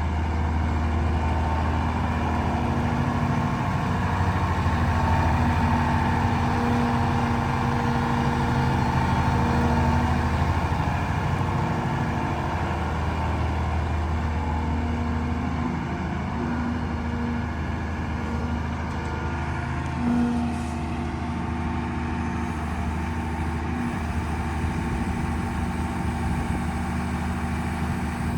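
Caterpillar M322C wheeled material handler's diesel engine running steadily, swelling a little in level for a few seconds and easing back.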